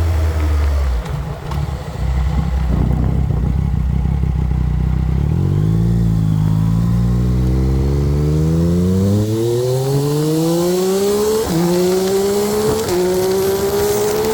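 Yamaha MT-09's inline three-cylinder engine running at low, steady revs, then accelerating hard from about six seconds in, its note climbing steadily with two quick upshifts near the end.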